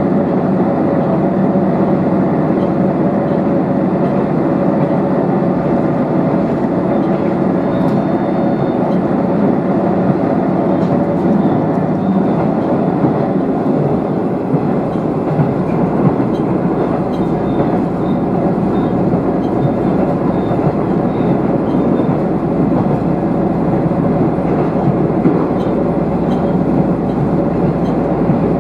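Diesel railcar running steadily at speed, heard from inside the car: a constant engine drone with held tones over the rumble of wheels on rail, and occasional light ticks.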